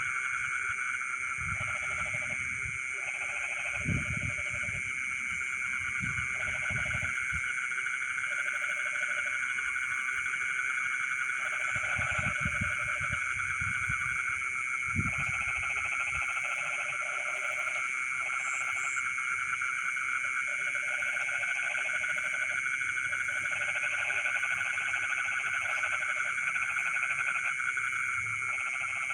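Night chorus of frogs in a flooded rice field: a continuous high steady trilling, with short bouts of lower croaking that come and go every second or two.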